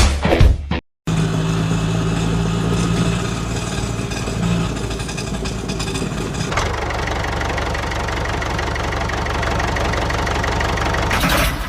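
Engine running steadily at idle, its tone shifting about six and a half seconds in.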